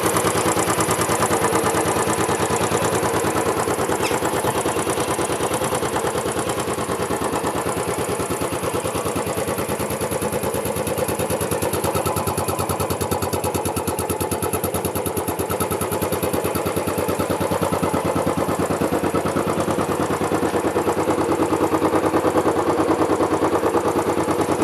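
Royal Enfield Bullet 500's air-cooled single-cylinder engine idling steadily, with a rapid, even beat of exhaust pulses that gets a little louder near the end.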